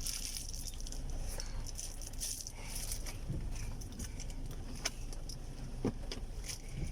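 Car interior while driving: a steady low road and engine rumble, with scattered light clicks and rattles.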